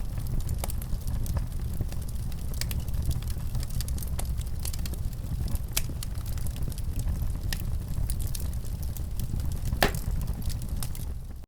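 Wood fire in a fireplace crackling, with many small sharp pops over a steady low rumble. One louder pop comes about ten seconds in, and the sound drops out abruptly right at the end.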